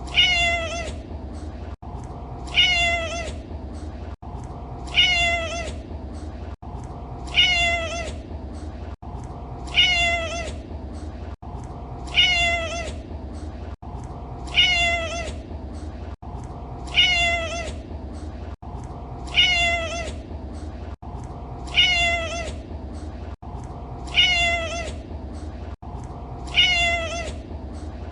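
A domestic cat's meow, the same call looped over and over about every two and a half seconds, about a dozen times, with a brief gap between repeats. A steady low hum runs underneath.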